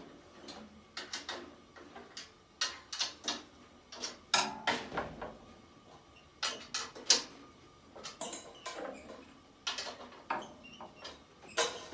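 Snare drum tension rods being turned with a drum key, giving scattered irregular clicks and knocks, some with a short ring. The worn snare head had gone very loose on one side and is being tightened.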